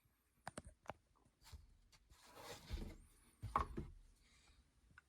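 Faint handling noise: a few soft clicks, then two brief rustles.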